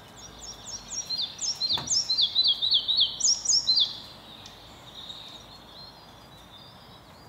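Red-breasted flycatcher singing: a quick run of short, sharply falling high notes lasting about four seconds, then fading out over a faint steady hiss.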